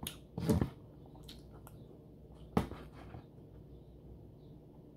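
Close-up eating sounds: chewing, with a few short wet smacks and clicks, the loudest about half a second and two and a half seconds in.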